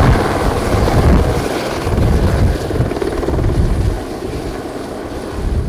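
Helicopter running, a low uneven rotor beat over a steady rushing noise, easing off a little about four seconds in.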